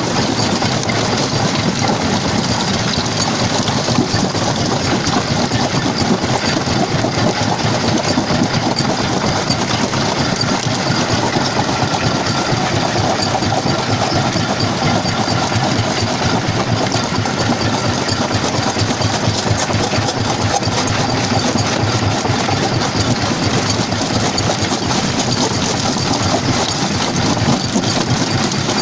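Jaw crusher running and crushing stone: a loud, steady machine din with a constant rattle of small knocks.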